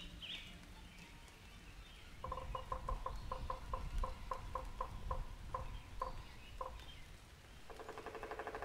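A bird calling: a run of short, evenly pitched notes about three a second that slow and stop, then a quick rattling trill near the end.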